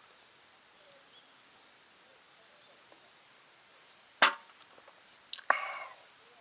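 Two sharp knocks a little over a second apart, the second followed by a brief clatter, over a faint steady high tone.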